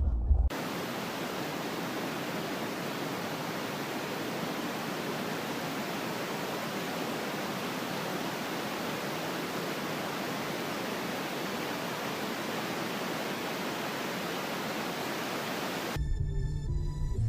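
Steady, even hiss of static-like noise that switches on abruptly about half a second in and cuts off abruptly near the end.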